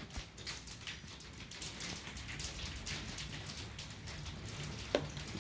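Heavy storm rain pattering against a basement window, a dense, irregular patter of drops striking the glass, with one sharper tap near the end.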